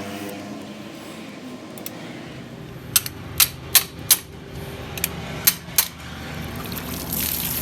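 Workshop knocks during engine repair work: seven sharp clicks or knocks between about three and six seconds in, over a steady background hiss.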